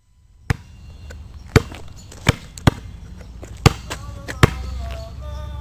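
Six sharp knocks or thuds at uneven intervals, about a second apart, over a low steady background hum.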